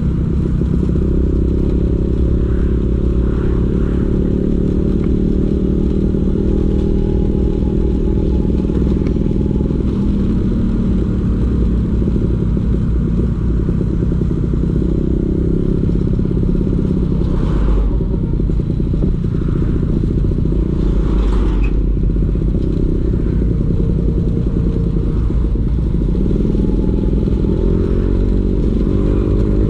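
Vespa PX 150's two-stroke single-cylinder engine running through a DRC Victory racing exhaust, its pitch shifting with the throttle and rising near the end.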